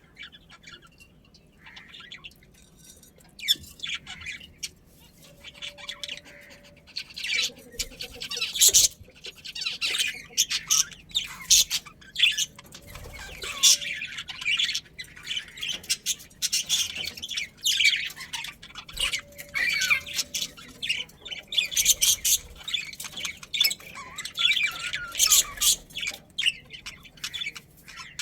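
Budgerigars chirping and squawking in a busy, rapid chatter of short sharp calls, sparse for the first few seconds and then thick.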